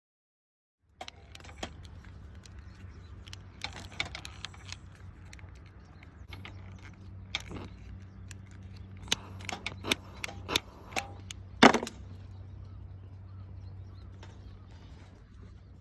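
Clinks and clatter of gear being handled, many separate knocks with the loudest clank near the end, over a steady low hum.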